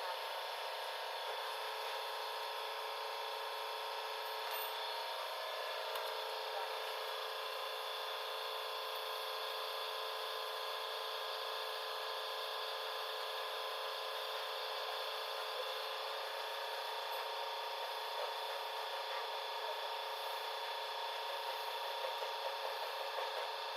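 Steady background hiss and hum with faint rubbing and scraping of parts being handled by hand.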